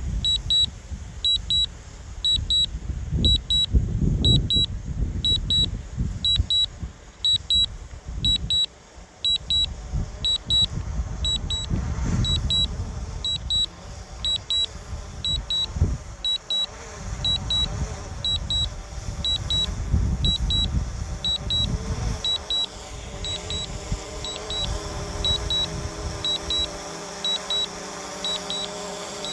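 Strong gusty wind buffeting the microphone with a deep rumble, easing near the end. Over it, a drone remote controller beeps steadily in quick pairs of high pips, about once a second, as the DJI Mavic 2 Pro lands.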